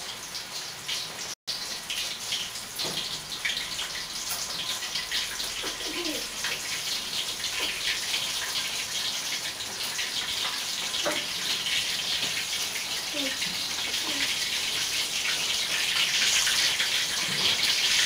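Flour-coated pork liver deep-frying in hot oil in a wok: a steady sizzle with dense crackling and spitting, growing gradually louder.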